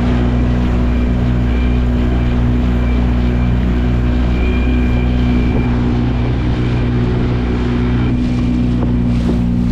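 Boat motor running steadily at a constant speed, a loud even hum with no change in pitch.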